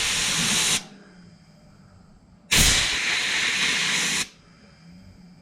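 Two bursts of compressed air hissing as a carburetor part of a Toro push mower is blown out: the first stops under a second in, the second starts about two and a half seconds in and lasts nearly two seconds.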